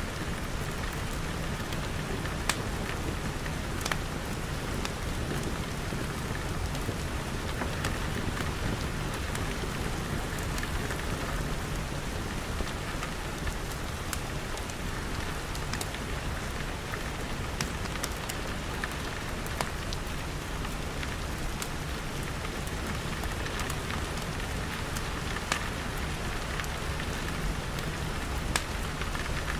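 Steady rain pattering on glass, with scattered sharp pops and crackles from a wood fire.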